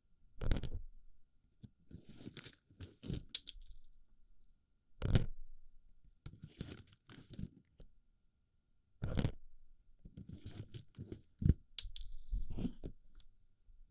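Plastic BB pellets being stuffed into an ear for ASMR: irregular clusters of crunching, rattling clicks, broken by several sharp, loud clacks a few seconds apart.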